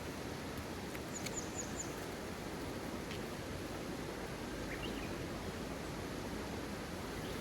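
Steady wash of falling rain. About a second in, a small bird gives four quick, high chirps.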